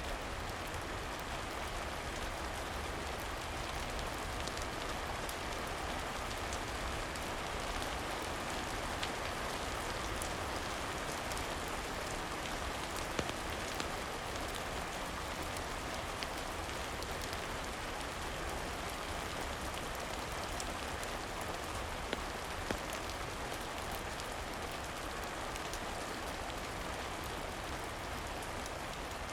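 Steady rain falling, an even hiss with scattered sharp clicks, and a few slightly louder ticks about halfway through.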